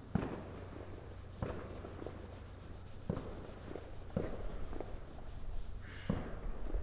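Several dull thumps, spread one to a second and a half apart: distant fireworks bursting.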